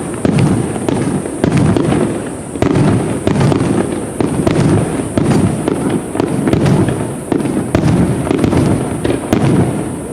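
Fireworks display: aerial shells bursting in quick succession, a boom about every half second to second over a continuous low rumble, with sharp cracks in between.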